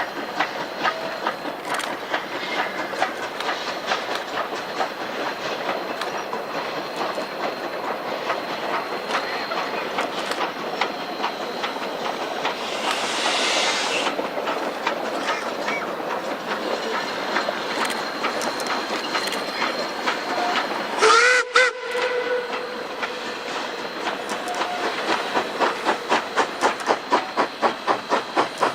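K-27 Mikado steam locomotive No. 463 working hard. Its exhaust chuffs steadily, with a burst of steam hiss about halfway through and a short steam whistle blast, the loudest sound, about three quarters in. Near the end the exhaust beats grow louder and quicken to about four a second.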